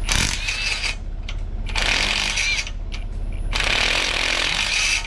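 Power impact wrench running in three bursts, each a second or so long, backing bolts out.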